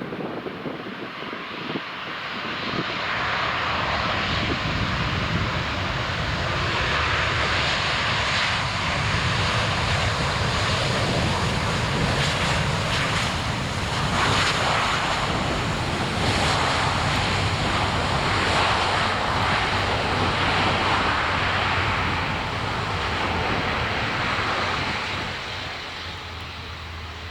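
Airbus A350-900 jet engines (Rolls-Royce Trent XWB) on a landing pass, a loud rushing jet roar that builds over the first few seconds, holds with some pulsing, and fades near the end.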